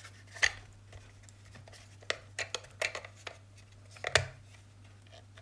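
Handling of a multimeter and its test leads: a dozen or so small plastic clicks and knocks, the loudest about four seconds in, over a faint steady low hum.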